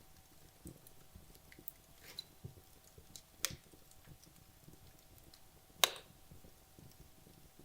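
Wood logs burning in a fireplace, crackling with scattered small pops and two louder sharp snaps, the loudest about three-quarters of the way through.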